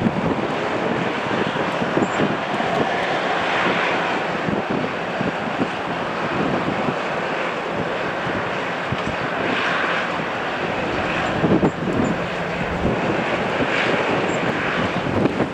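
Jet airliner engines running with a steady rush, mixed with wind buffeting the microphone in frequent low thumps.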